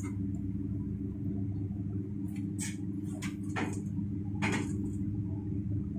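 Steady low machine hum, with several short knocks between about two and five seconds in.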